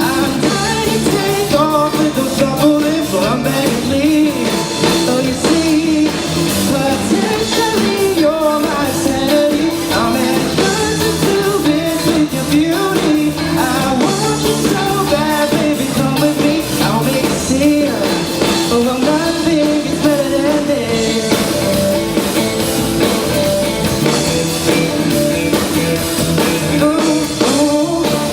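A pop-rock band playing live: a lead singer over guitar and drum kit.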